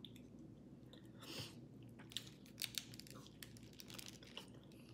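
Faint close-up chewing of a chile relleno burrito, with scattered small crisp mouth clicks and crunches.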